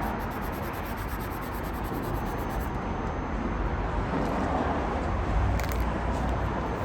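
Steady low rumble and hiss of car cabin noise, with the engine's exhaust drone underneath.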